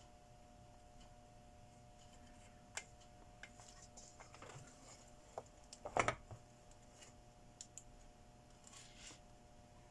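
Scattered small clicks and taps of tools and parts being handled on a workbench during an electronics repair, with a short cluster of louder knocks about six seconds in. A faint steady hum runs underneath.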